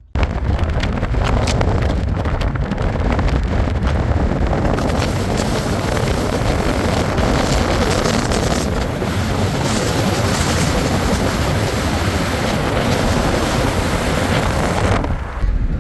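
Loud, steady wind rush buffeting the microphone over a deep rumble. It starts abruptly and dips briefly near the end.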